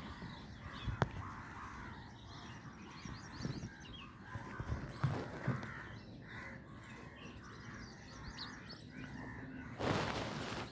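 Sparrows chirping busily with crows cawing among them, and a few low knocks. A short rush of noise near the end.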